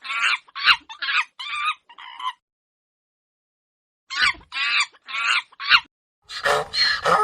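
Domestic chicken clucking: two bouts of short, repeated calls, about seven, then a pause, then four more. Near the end a different animal's call starts.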